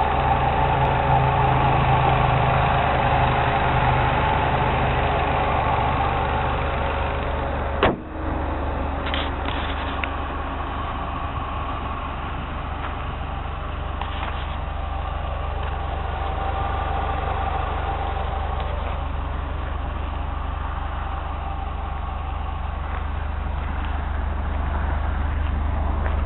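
2003 Chrysler PT Cruiser's 2.4-litre turbocharged four-cylinder engine idling steadily, a little louder in the first eight seconds, with one sharp click about eight seconds in.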